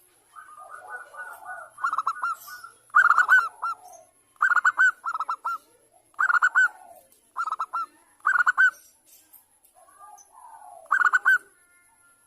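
Zebra dove (perkutut, Bangkok strain) singing its cooing song: clusters of short, quick coo notes repeated every second or so, with softer low murmuring notes in between.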